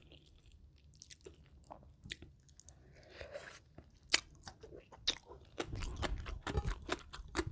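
Close-miked crunching and chewing of crispy deep-fried chicken batter, in scattered sharp crunches that come thicker and closer together in the last couple of seconds.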